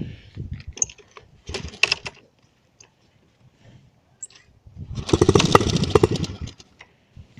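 Dirt bike engine being cranked without starting. There is a short attempt about one and a half seconds in, then about five seconds in it sputters for just over a second and dies without catching.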